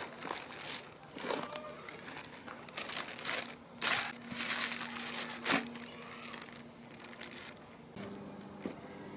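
Crinkling and rustling of something being handled, with a couple of sharper knocks near the middle.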